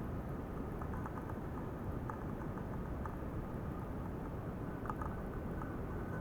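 Ultrasonic tank running: a steady hiss with faint scattered crackles and ticks from the agitated liquid.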